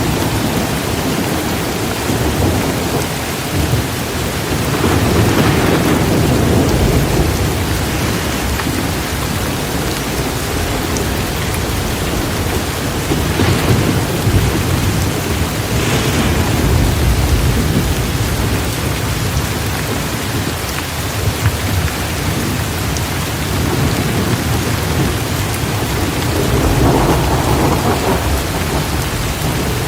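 Torrential rain pouring steadily in a thunderstorm, with rolling thunder swelling up three times: a few seconds in, about midway, and near the end.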